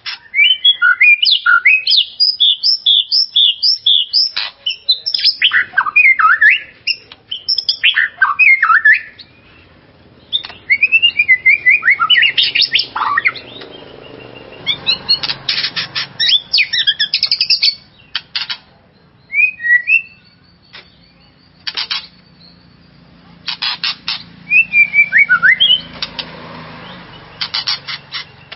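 White-rumped shama (murai batu) singing in loud, rapid phrases of varied whistled notes, broken by short harsh rasping bursts, with brief pauses between phrases.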